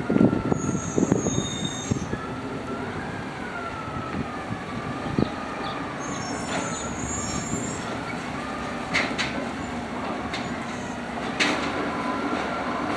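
Automated side-loader garbage truck working, with a wavering whine, short high-pitched squeals near the start and again about six seconds in, and a couple of sharp knocks later on.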